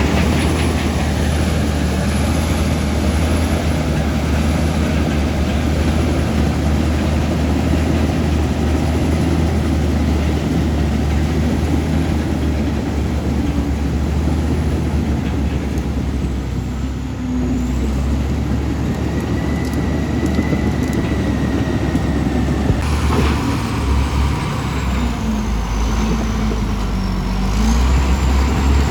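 Komatsu D65E bulldozer's diesel engine running steadily under working load, with a thin higher whine that comes and goes.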